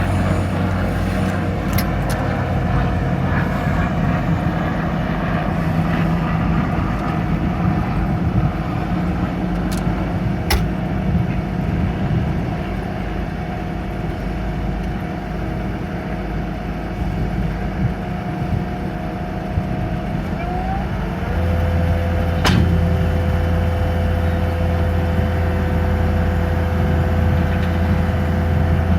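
Cat 299D2 compact track loader's 3.8 turbo diesel running steadily while the machine is operated, with a steady whine over the engine note. About twenty seconds in the whine slides down in pitch and the engine hum grows heavier, and there are a few sharp clicks or knocks along the way.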